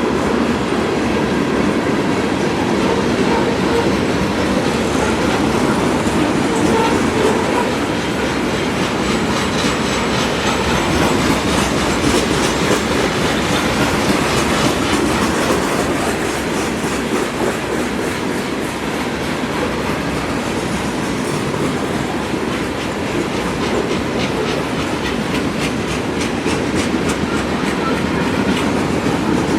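Freight train cars rolling past, with a steady rumble of steel wheels on rail and rapid clicking as the wheels cross rail joints.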